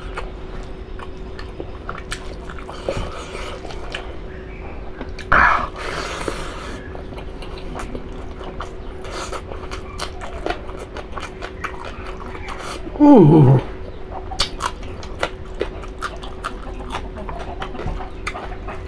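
Close-up eating sounds: chewing and small wet mouth clicks from someone eating beef innards, over a steady low hum. About 13 seconds in there is a short falling vocal sound.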